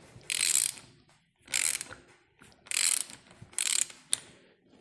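Ratchet wrench on a socket clicking in four short bursts about a second apart, as the handle is swung back between strokes. It is tightening a crankshaft gear puller's screw to draw the helical gear off a motorcycle crankshaft.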